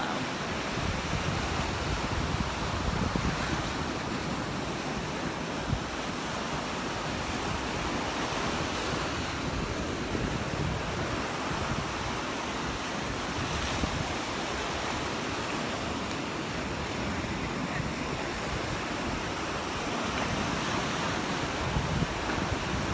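Surf breaking and washing on the shore in a steady wash of noise, with wind buffeting the microphone.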